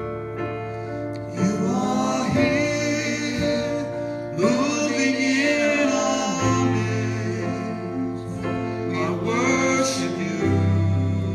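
A worship song: voices singing over a keyboard and guitar accompaniment, the singing coming in about a second and a half in.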